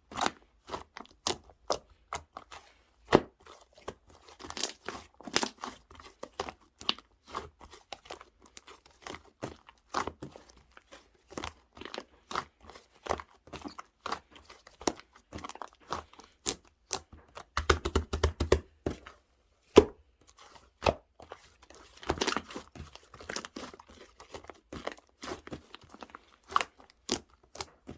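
Slime being played with, pressed and stretched, giving a dense, irregular run of sharp clicks and pops with crackling between them. The pops come thickest about two-thirds of the way through.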